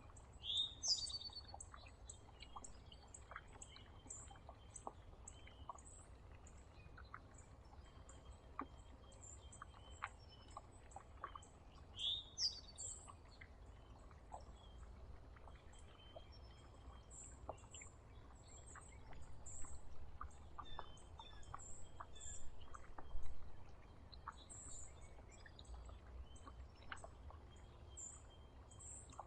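Songbirds calling at a backyard feeder: a steady run of high, thin chips, with two louder down-slurred calls about a second in and again about twelve seconds in, over scattered light clicks and a faint low rumble.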